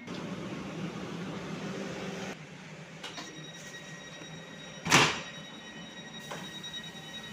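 České dráhy passenger train standing at a station platform with its doors open. A low running hum stops about two seconds in, leaving a faint steady high whine. About five seconds in comes one loud, short burst of noise, the loudest sound.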